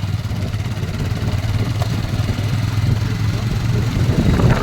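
Motorcycle engine running steadily at a constant pitch while riding.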